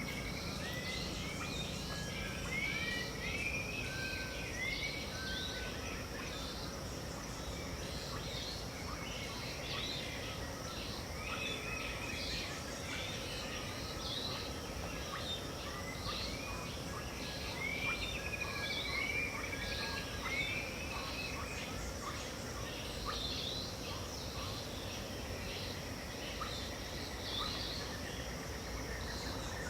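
Dawn chorus of many birds calling over one another in short arching and falling notes, over a steady high insect buzz and a low background rumble.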